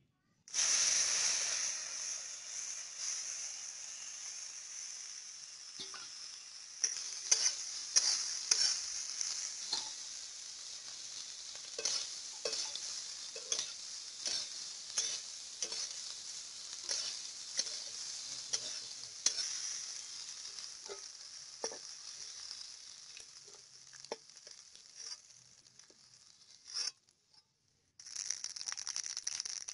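Prawns frying in hot oil in a steel wok: a steady sizzle, with a flat metal spatula scraping and knocking against the pan in irregular strokes. The sound drops out briefly near the end, then the oil sizzles again.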